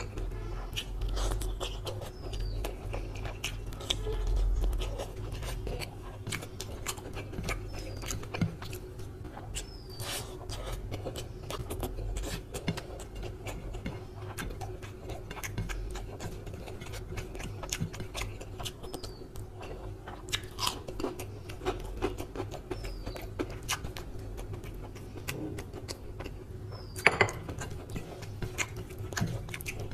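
Close-miked chewing and wet mouth clicks of a person eating rice, fried pakora and chicken curry by hand, with soft squishing of fingers working the rice. A single sharp knock near the end.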